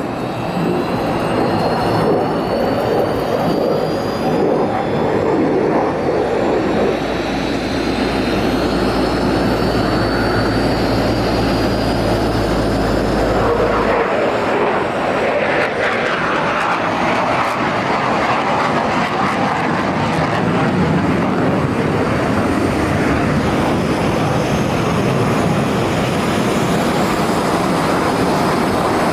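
Jet noise from an F-22 Raptor's twin Pratt & Whitney F119 turbofans during a flying display, loud and sustained. A low rumble drops away about fourteen seconds in.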